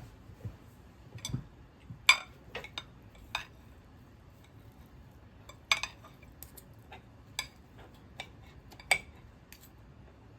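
Kitchenware clinking and knocking: a string of sharp, irregular clicks and clinks like cutlery against dishes, the loudest about two seconds in, near six seconds and near nine seconds.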